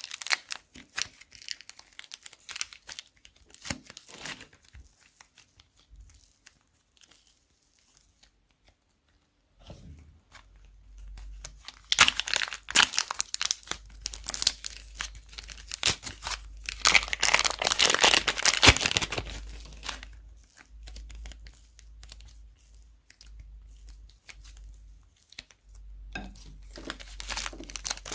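Slime being worked in plastic bags, making dense crinkling and crackling. It stops for a few seconds early on, then comes back loudest through the middle with a low rumble of handling underneath.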